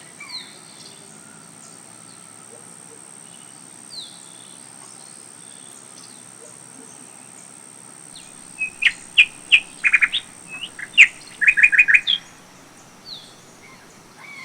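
A small bird chirping: a few soft falling calls, then about 8 seconds in a lively burst of loud, sharp chirps in quick runs lasting around three seconds. A thin, steady high-pitched tone runs underneath and stops near the end.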